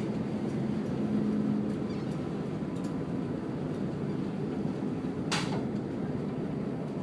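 A ferry's engines drone in a steady low hum, with a short sharp clatter about five seconds in.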